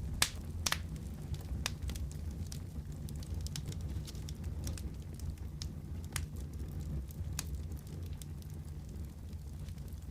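Fireplace fire crackling, with scattered sharp pops over a low steady rumble; the two loudest pops come within the first second.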